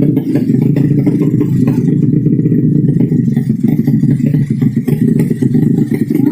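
Underbone motorcycle engine running steadily with a rough, rapid pulsing rumble, without revving up or down.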